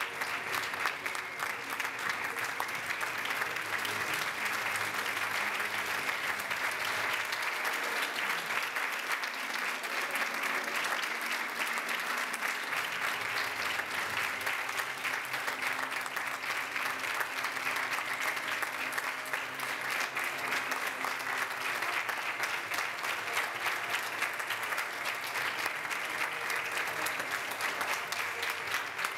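Audience applauding: steady, dense clapping that runs without a break.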